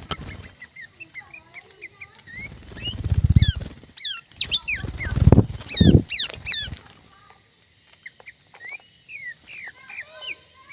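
Aviary birds chirping and calling, many short high notes that sweep quickly downward. Two louder low bursts come at about three seconds and again at five to six seconds in.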